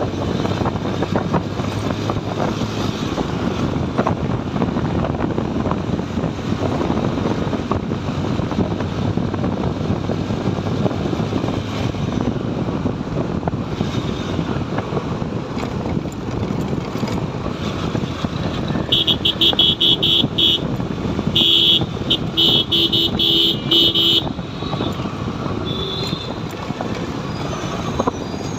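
Riding a motorcycle along a highway: steady engine, road and wind noise. About two-thirds of the way through, a vehicle horn honks in a run of short, rapid blasts, with one more short honk a little later.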